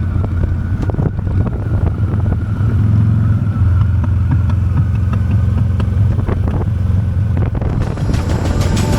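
Honda Steed V-twin motorcycle engine running steadily while riding, with wind buffeting the microphone. Music comes in near the end.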